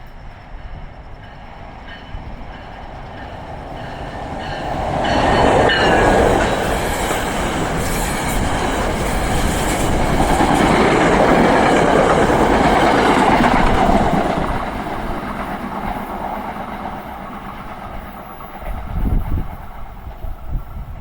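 NJ Transit commuter train passing at speed: wheels clatter on the rails, swelling to loudest in the middle and fading away. A few low thumps near the end.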